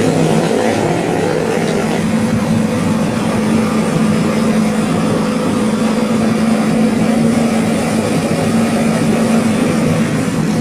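An engine running at a steady speed, a constant drone with no change in pitch.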